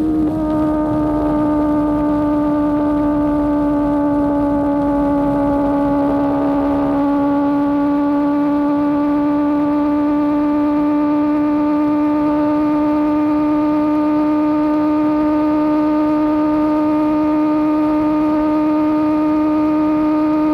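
Motorcycle engine and exhaust droning at a steady cruising speed, holding one unchanging pitch throughout.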